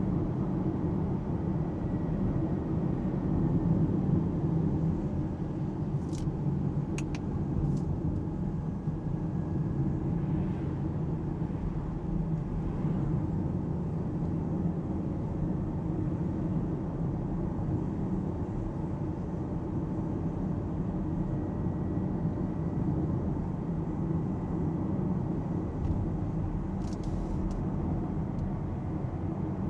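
Steady road and tyre noise with a low rumble from an Alpine A390 electric car driving along, with no engine note. A faint high whine comes and goes, and a few light clicks sound about six to eight seconds in and again near the end.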